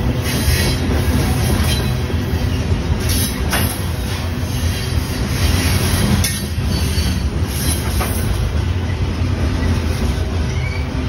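Freight train of covered hopper cars rolling past close by: a steady wheel-on-rail rumble with scattered clicks and knocks from the wheels and couplings.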